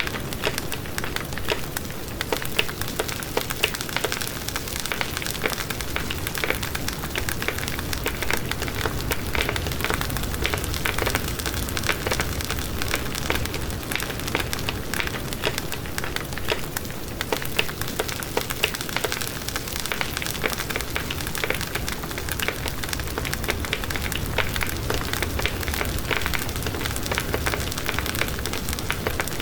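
Wood fire burning in a fireplace: steady hiss with dense, irregular crackling and popping throughout.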